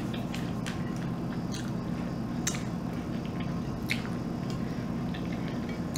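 A person quietly chewing food with small mouth clicks, over a steady low hum. Two sharper clicks come about two and a half and four seconds in.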